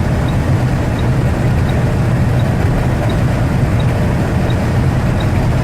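Steady in-cab rumble of a Western Star 9400XE semi truck's diesel engine and road noise while it runs in a DEF de-rate, with a faint tick repeating about every three quarters of a second.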